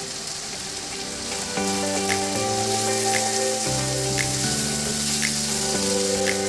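Chicken pieces sizzling in sauce in a frying pan as they are stirred, a steady hiss. Background music with held notes and a changing bass line plays over it, its bass coming in about a second and a half in.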